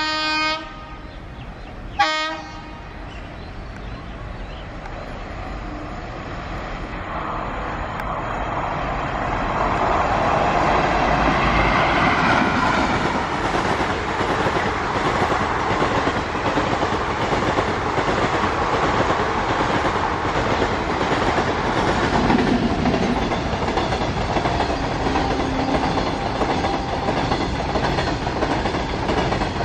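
Two short train-horn toots, the second briefly about two seconds in, then an electric-hauled passenger express passing at speed: a rumble that builds and is loudest after about ten seconds, with wheels clattering over the rail joints.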